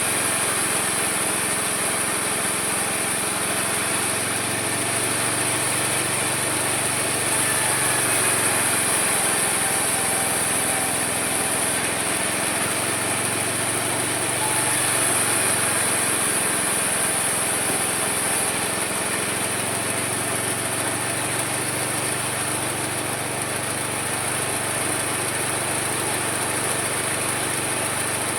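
Homemade mini sawmill running steadily while its saw cuts through a log, the high whine of the cut swelling and easing twice.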